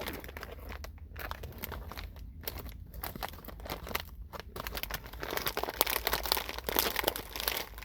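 Crinkling and rustling of a plastic candy packet as the sour chews inside are rummaged through, with irregular crackles throughout.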